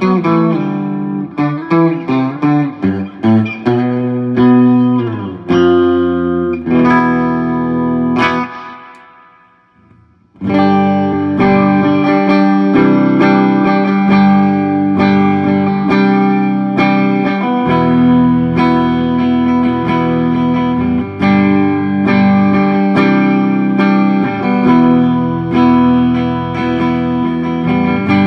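Electric guitar, a 1967 Gibson SG with three P90 pickups, played through a Marshall JCM 2000 amp and a Headrush pedalboard. It opens with quick picked notes, then a chord is left ringing and fades out about ten seconds in, followed by steady chords and riffing.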